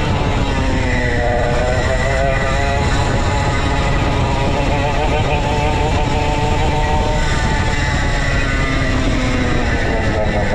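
Go-kart engine running, its pitch rising about a second in, holding, dropping around seven seconds in and climbing again, over a heavy low rumble of wind and track noise.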